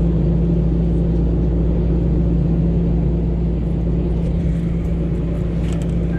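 Moving passenger train: a loud, steady rumble of the cars running along the rails.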